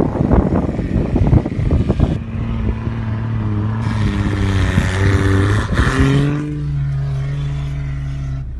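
A 1988 Nissan Patrol's 3.3-litre turbo diesel engine pulling on a snow climb. For the first two seconds it is buried under heavy wind buffeting on the microphone. Then its note wavers and rises with a hiss over it, and after about six and a half seconds it drops to a steady lower running note.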